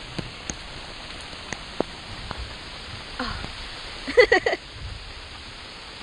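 Steady rain hiss, with scattered drops ticking sharply close to the microphone. A short voice exclamation breaks in about four seconds in.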